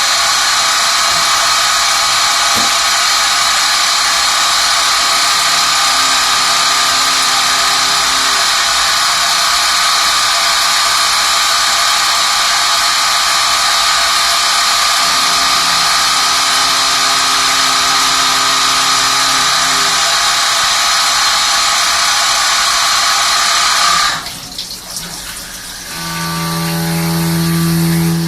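Swiss-type CNC lathe running with a loud, steady high hiss and whine that cuts off abruptly about 24 seconds in; near the end a lower machine hum builds up.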